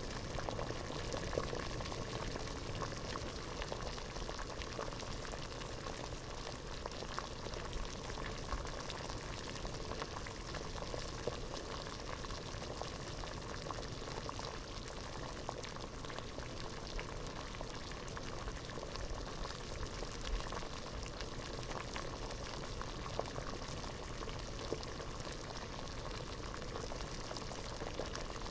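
Water at a full rolling boil in a pot, bubbling steadily with a dense mass of small pops and crackles.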